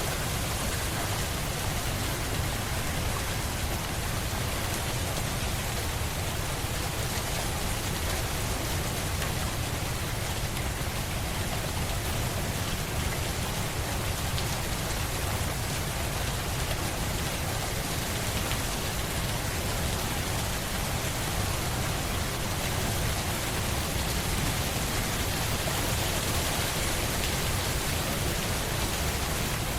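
Steady rain falling on a surface, an even hiss with a low rumble underneath.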